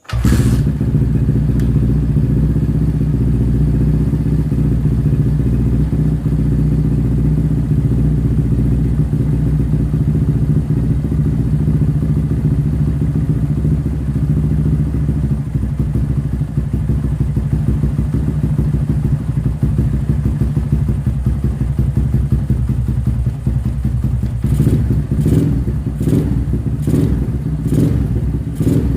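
Motorcycle engine with a JMF aftermarket exhaust, starting up suddenly and idling steadily with a deep, loud exhaust note, sounding inside a room. Near the end it is given a run of quick throttle blips, about two a second.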